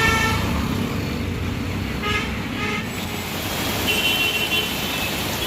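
Road traffic running steadily, with vehicle horns honking: one horn at the very start, then two short toots about two seconds in.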